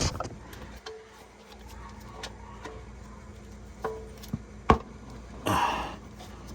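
Scattered metallic clicks and knocks of a large wrench working a stuck oil filter loose as it slowly turns, with a short scraping rub near the end.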